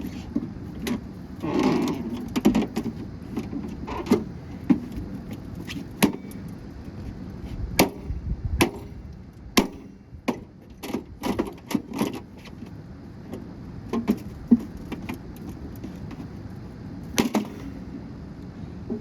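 A microwave oven being broken apart by hand: irregular sharp cracks, snaps and knocks of its plastic and metal parts, a dozen or more scattered through the stretch.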